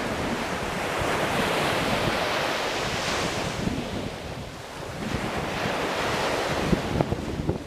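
Ocean waves breaking and washing on a shore, surging in twice with a brief lull about halfway through.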